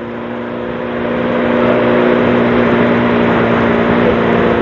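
2010 Honda CBR600RR's inline-four engine running at steady revs under way, getting louder over the first two seconds, with wind rushing over the microphone.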